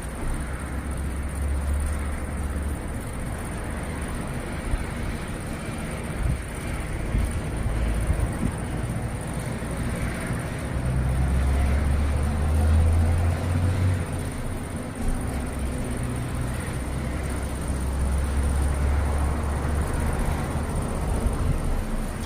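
Distant thunder rolling as a low rumble that swells and fades several times, loudest a little past the middle and again near the end, over a steady faint high hiss.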